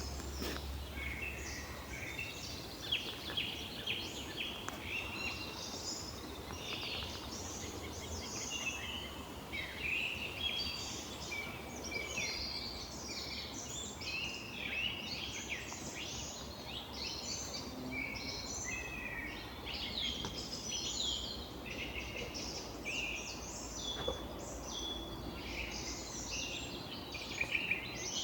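Many songbirds singing at once, a dense chorus of overlapping chirps and trills, over a low steady rumble.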